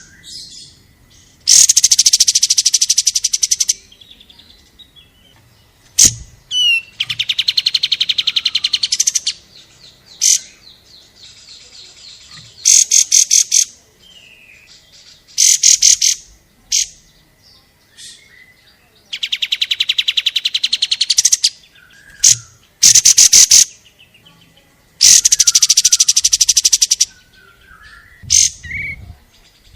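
Recorded songbird song: loud, very rapid trills in bursts of one to two seconds, repeated about every three seconds, with short sharp chirps between them.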